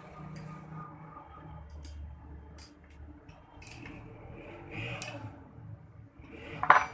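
Metal clicks and clinks of a pulley being fitted onto a DC motor's shaft, with one loud sharp knock near the end.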